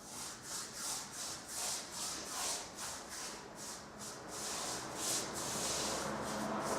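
A paintbrush swishing back and forth as it spreads lacquer over a carved fireplace, with scratchy strokes about two to three a second that run more evenly near the end.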